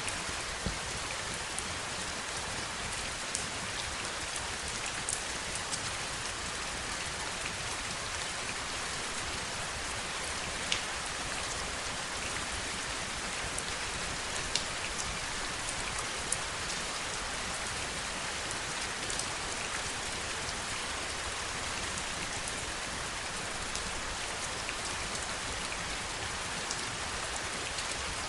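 Steady heavy rain, a constant hiss with scattered sharper taps of individual drops hitting a surface.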